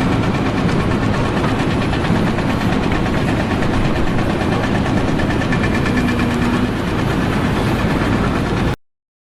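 An engine running steadily and loudly, cut off abruptly near the end.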